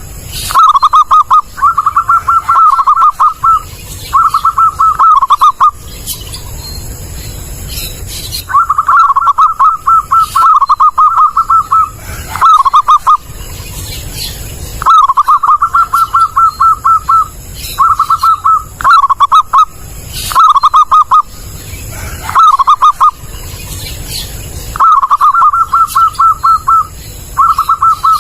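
Zebra dove (perkutut) cooing, loud and clear: repeated phrases of rapid, pulsing coo notes, each one to three seconds long, with short pauses between them.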